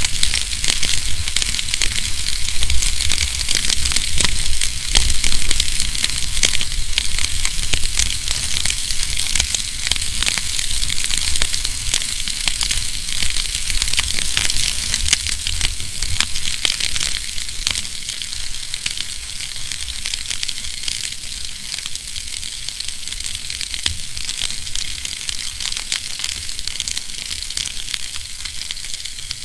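Wood fire burning in a fireplace, crackling with many small snaps and pops over a steady hiss and a low rumble, slowly growing quieter.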